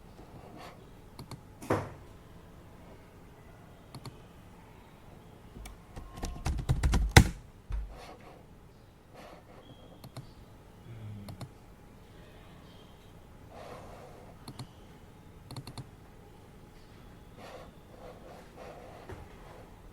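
Typing on a computer keyboard in scattered, unhurried keystrokes, with a quick run of louder keystrokes and low thumps about six to seven seconds in.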